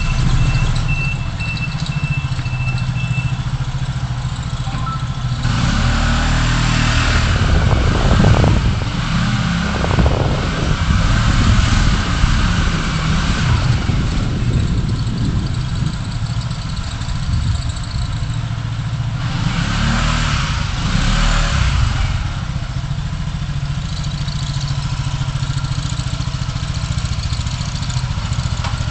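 A car driving in city traffic: a steady rumble of engine and road noise, with louder swells as other vehicles pass about six, ten to thirteen, and twenty seconds in.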